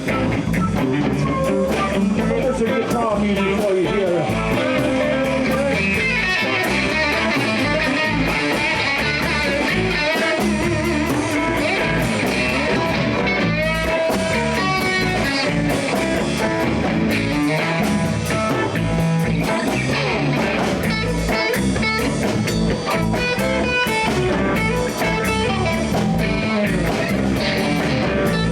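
Live blues band playing an instrumental passage, with guitar prominent over bass and drums at a steady beat.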